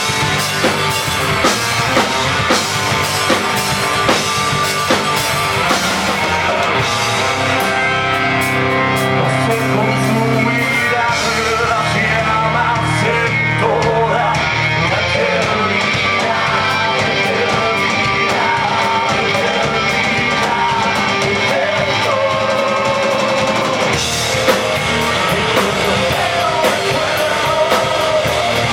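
Rock band playing live: electric guitars, bass and drum kit, with sharp drum hits in the first several seconds and again near the end.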